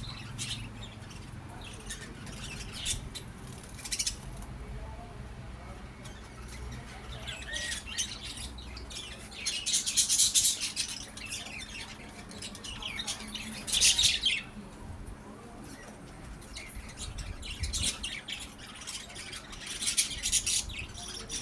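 Birds squawking and chirping in scattered high-pitched bursts, loudest about ten seconds and fourteen seconds in.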